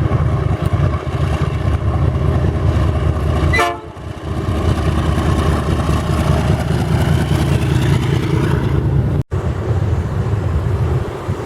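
Train passing close by, a steady heavy low rumble of locomotive and wagons. The sound cuts out for an instant about two thirds of the way through.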